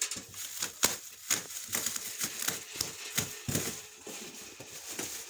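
Irregular clicks, knocks, scrapes and rustling of a large cardboard refrigerator box being worked open by hand.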